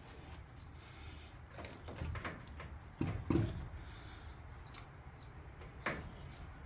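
A few scattered light knocks and clunks, about five, the loudest a little over three seconds in: parts being handled while the intake manifold of a small-block Chevy 350 is lifted off.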